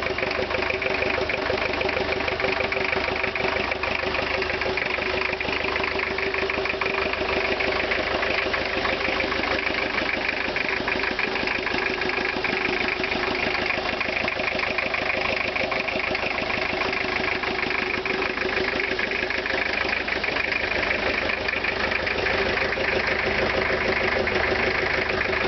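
Cold 1983 Ford Ranger's 2.2-litre four-cylinder diesel idling steadily with a fast, even knocking clatter, soon after a cold start at 20 °F without a block heater.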